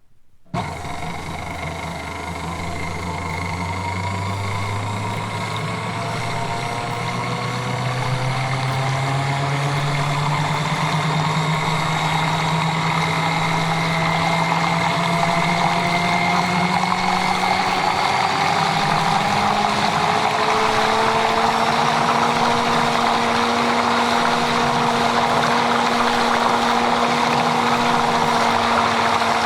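A motor or engine cuts in abruptly about half a second in and runs steadily, its pitch rising slowly and evenly throughout as it speeds up.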